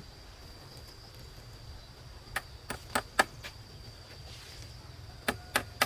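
Sharp knocks of a tool striking, in two runs: about five quick strikes some two to three and a half seconds in, then three more near the end. A steady high-pitched whine runs underneath.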